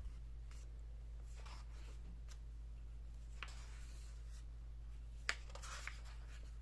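Faint rustling and soft handling of the thick pages of a large hardcover book as they are turned, with one sharp tick a little over five seconds in. A steady low electrical hum runs underneath.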